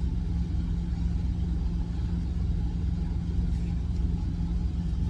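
Steady low rumble and hum of an idling truck engine, unchanging throughout.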